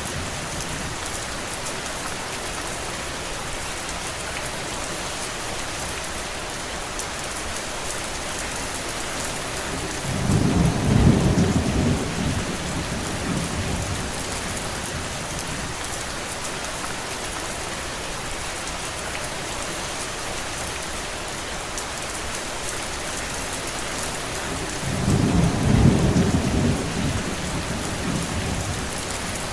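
Steady rain hissing, with two low rumbles of thunder swelling up and dying away, one around the middle and one near the end.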